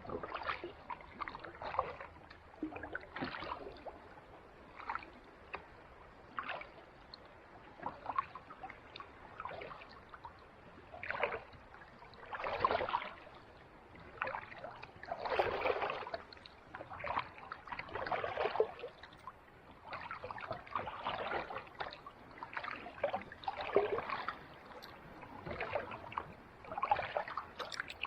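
Kayak paddle strokes in calm sea water: irregular splashes and swishes every second or two, a few of them longer and louder.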